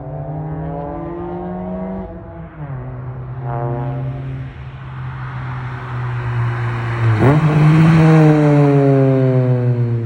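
1996 Honda Accord's JDM F23A four-cylinder, breathing through a 4-1 race header, test pipe and Skunk2 Mega Power cat-back exhaust, revving hard as the car accelerates. The engine note drops about two seconds in. The car then passes by, loudest about seven to eight seconds in, and its pitch falls as it goes away.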